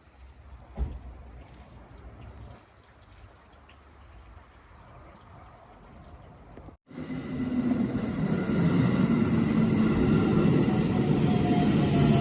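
Train running: a low rumble with a single thump about a second in, then after an abrupt cut a much louder, steady rumble with a few steady tones over it.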